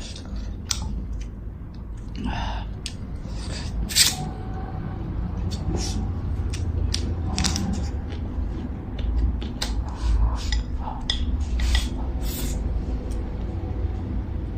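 Eating utensils clicking and scraping against bowls and plates during a meal: many short, irregular clicks over a steady low rumble.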